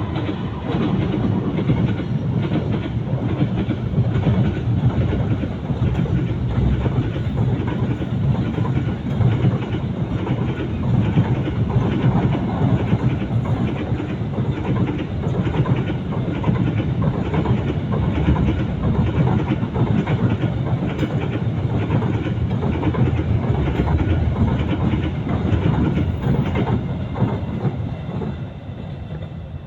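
A long train passing close by, its wheels clattering steadily over the rail joints, dying away near the end.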